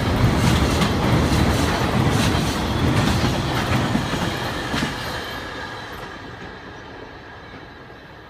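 Freight train passing over a railway bridge, its wagon wheels clattering rhythmically over the rail joints; about five seconds in the train has passed and the rumble fades away into the distance.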